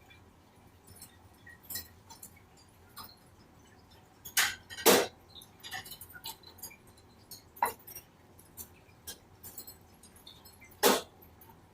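Pet bird clambering about a wire cage: light metallic clicks and jingles of feet, beak and toys against the bars, with a few louder rattles, two close together near the middle and others later on.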